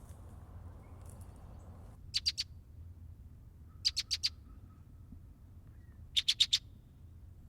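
Male red-winged blackbird calling: three short bursts of rapid, sharp, high notes, each burst of four or five notes, roughly two seconds apart.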